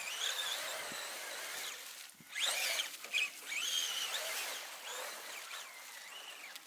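Electric motor of a radio-controlled mud truck whining as it is throttled, its pitch rising and falling in short surges over a steady hiss of drivetrain and tyres.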